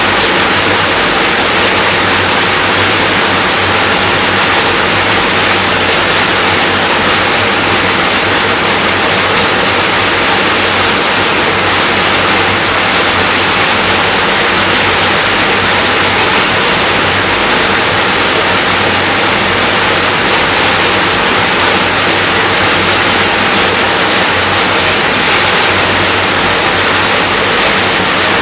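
Rain falling steadily: an unbroken, even hiss.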